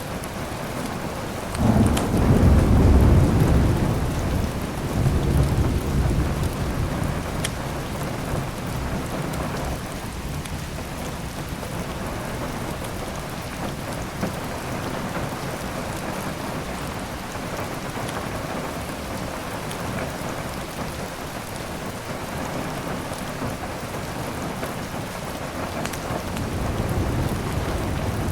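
Steady heavy rain with a roll of thunder that rumbles in about two seconds in and dies away over several seconds, and a softer rumble near the end. A few sharp crackles from a wood fire stand out above the rain.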